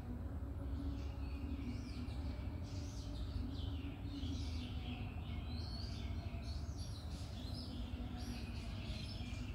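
Birds chirping and calling in the background, a dense run of short quick notes, over a steady low hum.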